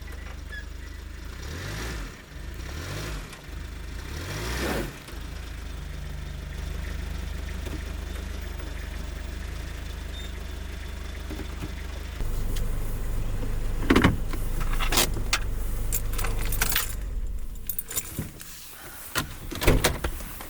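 Truck engine running with a steady low rumble that grows louder about twelve seconds in, with a series of sharp clicks and knocks near the end.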